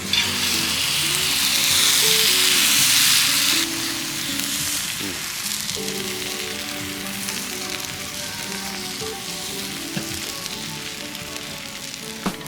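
Food frying in a hot pan: a loud sizzle that starts suddenly, drops to a quieter steady sizzle after about three and a half seconds, with a few light clicks near the end.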